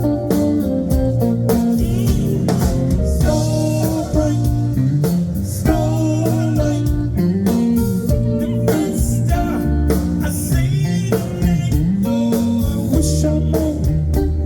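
Live blues band playing the instrumental intro of a slow Chicago-style soul song: guitar, bass guitar and drum kit.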